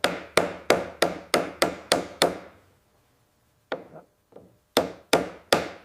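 Hammer strikes: a run of about eight quick, evenly spaced blows, a short pause, then several more.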